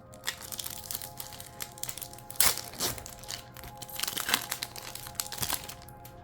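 Trading-card booster pack wrapper crinkling and tearing as it is handled and ripped open, with sharper crackles about two and a half and four seconds in. Steady background music underneath.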